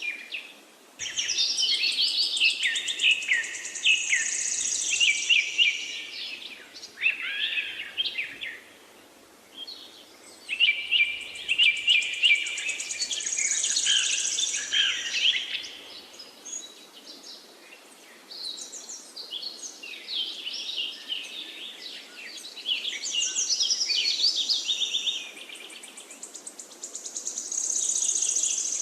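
Wild songbirds singing in rapid, intricate phrases with trills and high notes. The song comes in three long bursts separated by short pauses, over a faint steady hiss.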